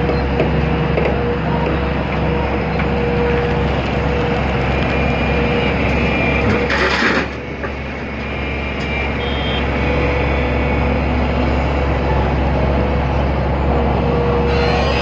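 Hitachi ZX200 excavator's diesel engine and hydraulics running steadily under load, with a steady whine. There is a short burst of hiss about seven seconds in.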